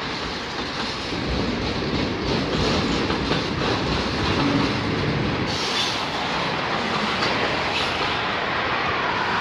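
Freight train of auto-rack cars rolling past at steady speed: a continuous rumble of steel wheels on the rails with a faint clickety-clack.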